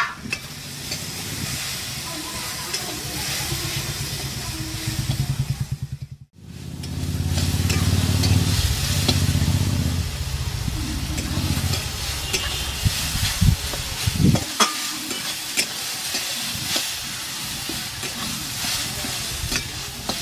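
Diced eggplant and neem leaves sizzling in hot mustard oil in a metal wok, with a metal spatula stirring and scraping against the pan in frequent short clicks. A low rumble runs underneath for about the first three-quarters.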